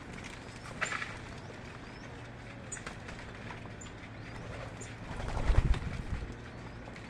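Birds giving short, high chirps over a steady low hum, with a few small clicks. About five and a half seconds in, a brief low rumbling thump is the loudest sound.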